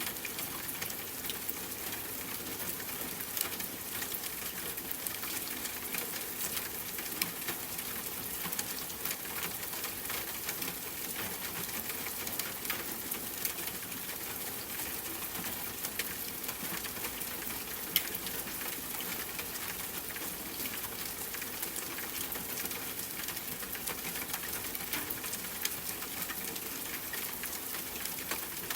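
Steady rain, an even patter with scattered sharp drop ticks; one louder tick comes a little past halfway.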